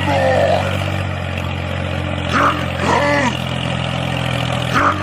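Steady low engine drone. Near the start there is a short wavering sound, and an identical short arched call-like sound comes twice.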